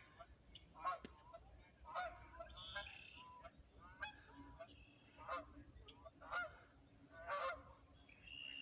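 Geese honking repeatedly from a flock on the river, a call about once a second at irregular spacing. A single sharp click comes about a second in.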